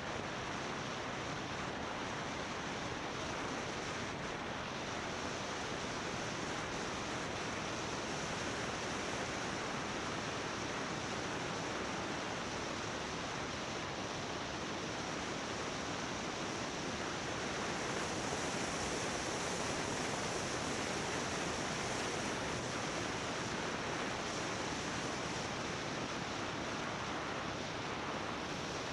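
Steady rush of wind over the microphone of a 360 action camera riding on a moving motorbike, swelling a little past the middle.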